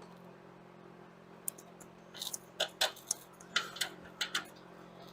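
Irregular sharp clicks and taps of hand-tool work on the plastic fasteners of a car's inner fender liner, about a dozen over two or three seconds, over a faint steady hum.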